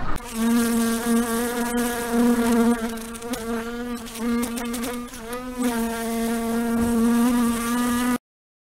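Fly buzzing in flight: a steady droning buzz with many overtones, its pitch wavering briefly a little past the middle, then stopping suddenly near the end.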